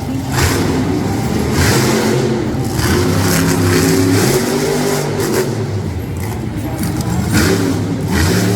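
Monster truck engine revving hard, its pitch climbing and dropping again and again, with several short bursts of hissing noise over it.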